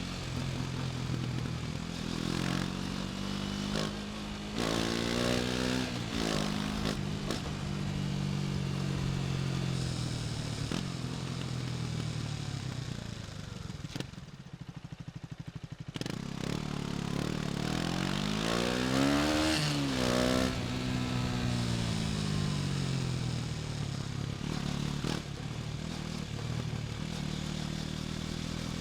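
KTM Duke 250's single-cylinder four-stroke engine running under way, revs rising and falling. It drops to a low, quieter note about halfway through, then climbs again to a peak a few seconds later before easing off.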